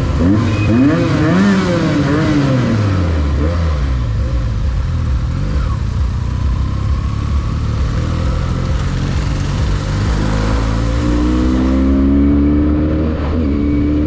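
Isuzu D-Max pickup engine revving up and down, then pulling steadily higher in pitch as it accelerates, with a brief drop in pitch near the end. Steady road rumble runs underneath.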